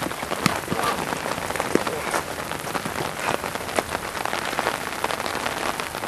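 Steady rain: a hiss of falling rain with scattered, irregular sharp drop taps.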